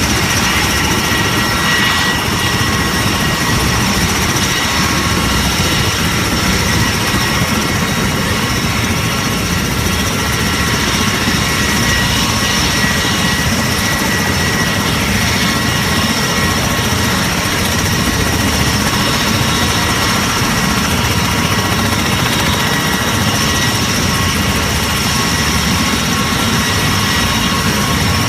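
Aircraft in flight: a steady, loud rushing engine noise with several constant whining tones on top, unchanging throughout.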